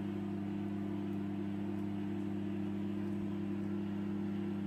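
A steady, low mechanical hum at an even pitch and level.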